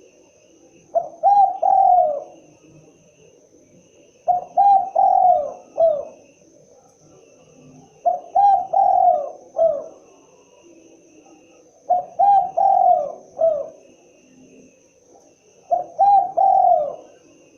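Spotted dove (tekukur) cooing: a short phrase of three or four low coos, repeated about every four seconds, five times.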